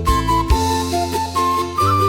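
Andean flute playing a slow melody of held notes over sustained accompaniment chords and bass, with a drum beat near the start.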